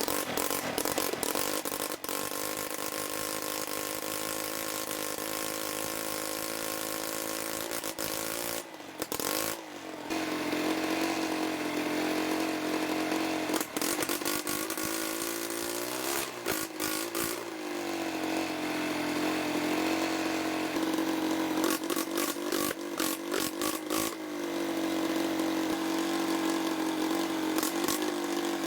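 Motorcycle engine converted from gasoline to diesel, running steadily. It briefly cuts out about nine seconds in and is revved up and down a couple of times, running unevenly for a few seconds near twenty-two seconds in.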